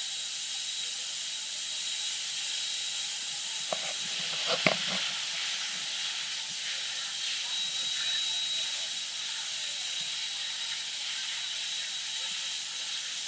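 Steady high-pitched hiss with a faint constant thin tone, broken by a couple of short knocks about four and a half seconds in.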